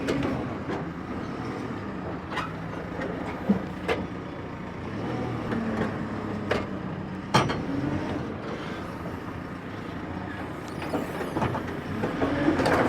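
A machine's engine running steadily while a truck cab is pulled free, with sharp metal clanks and knocks every second or two.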